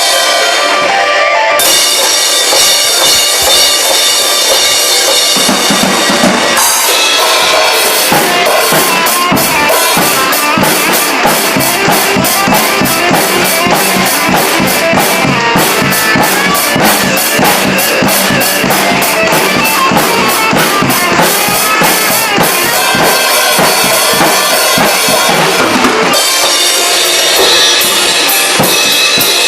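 Drum kit played along with a recorded song, with kick and snare clear in the mix. The playing shifts to a denser section about six or seven seconds in and eases back near the end.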